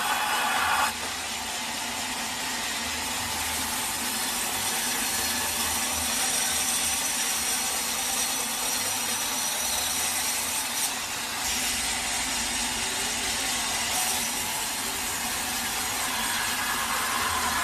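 Sawmill saw cutting steadily through a teak log, a continuous mechanical sawing sound whose tone shifts about a second in and again near the end.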